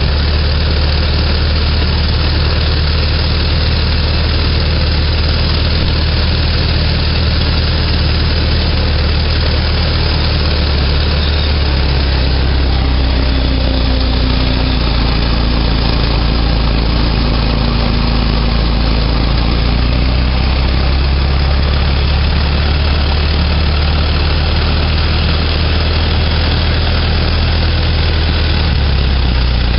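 Ford Model T's four-cylinder side-valve engine running as the car drives slowly, a steady low engine rumble under a constant rushing noise of the moving car.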